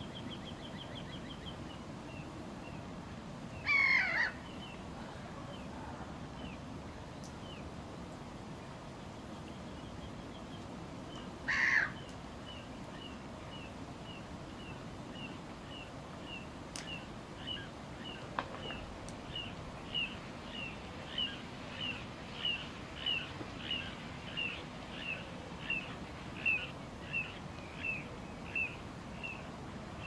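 Wild birds calling: one bird repeats a short, high note about twice a second, louder in the second half. Two loud, crow-like calls stand out, one about four seconds in and one about twelve seconds in.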